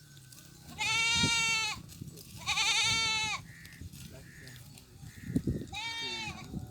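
A goat bleating three times with a quavering, wavering call. The first two bleats are long and the last one near the end is shorter.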